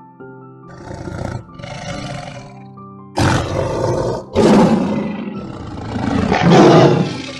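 A big cat roaring: two quieter calls, then louder, longer roars from about three seconds in, over soft piano music.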